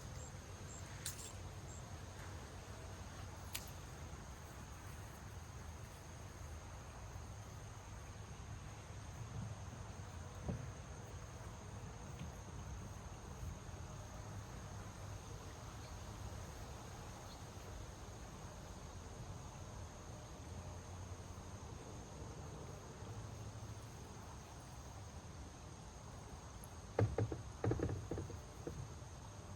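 Faint, steady chorus of insects such as crickets, a thin high drone over a low rumble. Near the end comes a short run of knocks.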